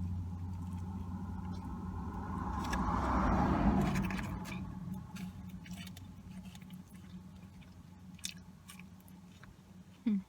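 Close-up chewing and crunching of fast food, with a vehicle passing outside that grows louder about three seconds in and then fades away.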